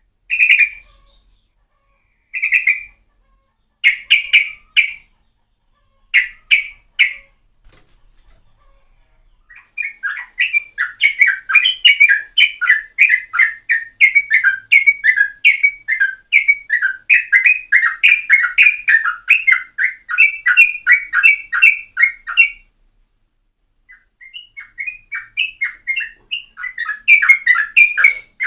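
Yellow-vented bulbul (trucukan) singing loudly in short bubbly phrases, then a long unbroken run of rapid chattering notes from about ten seconds in, and more phrases near the end.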